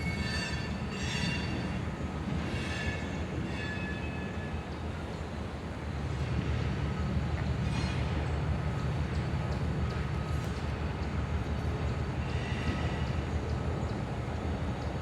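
A train rolling past with a steady low rumble that grows louder about six seconds in, with short high-pitched squeals near the start and again about twelve seconds in.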